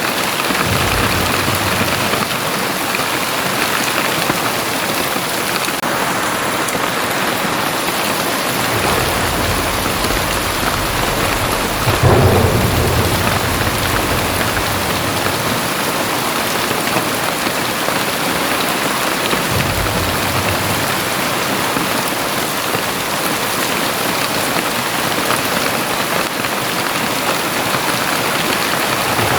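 Very heavy rain pouring steadily, with a low roll of thunder building in the middle and cracking loudest about twelve seconds in, then fading away.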